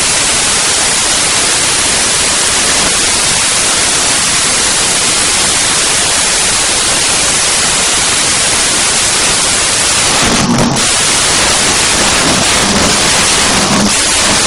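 Hand car washing machine's hose spraying, a loud steady hiss. From about two-thirds through, a low motor hum joins in on and off, with a few short knocks.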